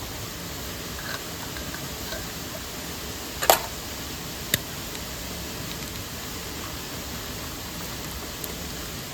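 Steady rushing of a mountain stream and waterfall. A sharp crack sounds about three and a half seconds in, with a smaller click a second later.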